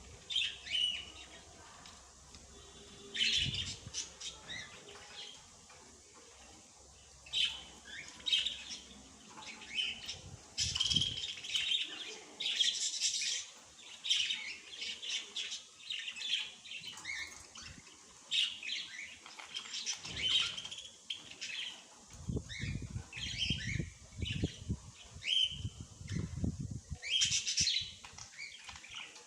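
Small birds chirping and twittering in short, repeated calls. In the last third there is also a run of low thuds.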